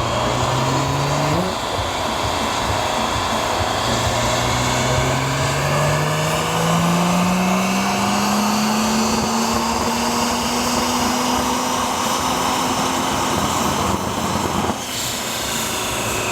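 An engine running under a steady loud rush of wind and road noise. Its note climbs slowly and evenly for about ten seconds, and the sound changes abruptly near the end.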